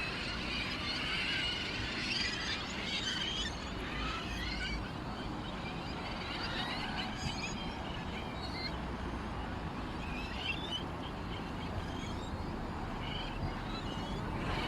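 Small birds chirping and twittering in many short high calls, busiest in the first few seconds and again near the end, over a steady low background rumble.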